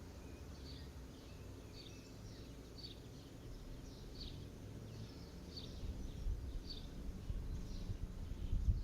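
A bird calling with short, high chirps, one every second or so, over a low rumble that grows louder in the last few seconds.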